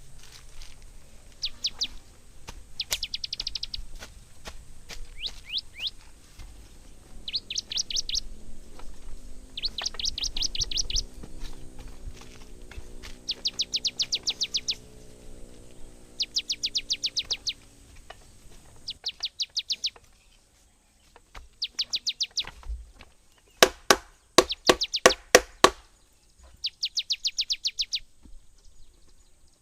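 A small bird repeatedly sings a quick trill of chirps, each about a second long, every couple of seconds. Around ten seconds in, a low drone swells and fades. Near the end comes a rapid cluster of sharp knocks, the loudest sounds. A faint steady high whine runs underneath.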